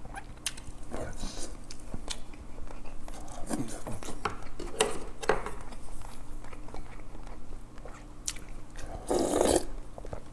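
A person chewing soft food close to the microphone, with wet lip-smacking and many short mouth clicks, and a louder smacking stretch near the end.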